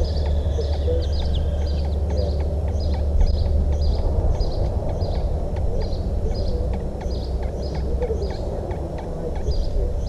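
A bird calling a short high note over and over, about twice a second, with fainter chirps from other birds, over a steady low rumble.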